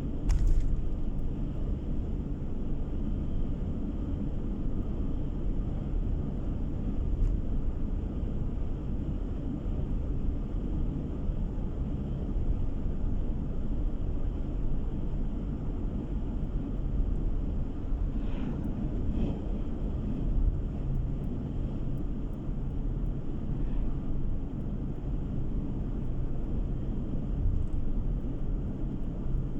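Steady low road and engine rumble heard from inside a moving car, with a brief click just after the start.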